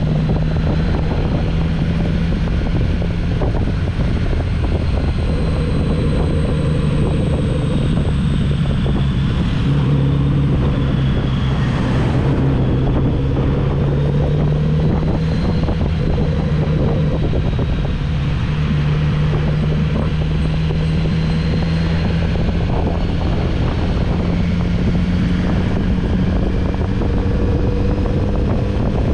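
Kawasaki Z900RS inline-four engine running steadily under way, its pitch holding and shifting up and down a little every few seconds with the throttle.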